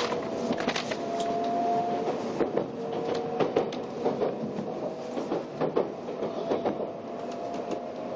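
Interior sound of an N700-series Shinkansen car under way: a steady whine from the electric drive, with a few tones that rise slightly, over rumbling running noise. A run of irregular sharp clicks and knocks comes from the wheels on the track, thickest in the middle of the stretch.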